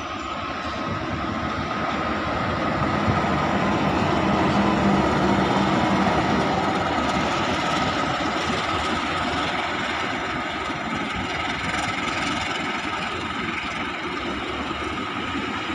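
KAI diesel-electric locomotive running past with a container freight train, its engine loudest about five seconds in. The container flat wagons then follow, rolling by on the rails in a steady run of wheel noise.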